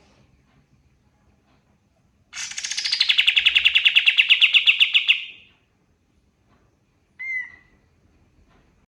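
Kapas tembak songbird singing: a loud, rapid trill of about a dozen notes a second that slides down in pitch and then holds steady for about three seconds. A single short call follows near the end.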